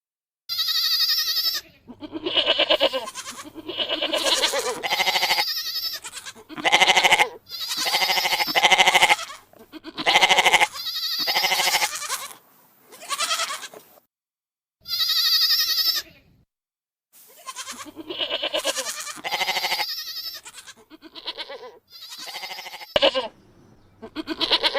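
Animal bleating: a long series of loud, wavering bleats, one after another, each about a second long with short pauses between.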